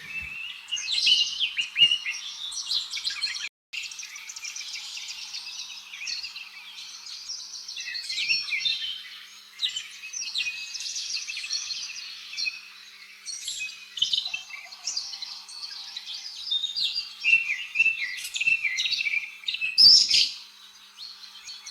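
Robin singing: a long run of quick, high chirping and twittering phrases, with a momentary break about three and a half seconds in.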